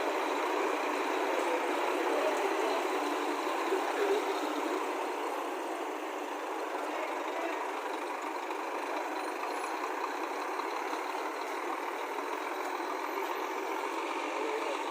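Diesel engine of a Scania coach running steadily as the bus pulls away, amid a steady vehicle noise.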